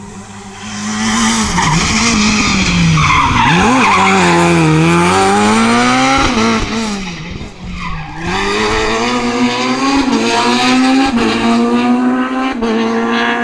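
Rally car engine revving hard, its pitch rising and falling with gear changes and lifts through a corner, with tyres skidding and squealing. The engine note drops briefly just before the middle and climbs again.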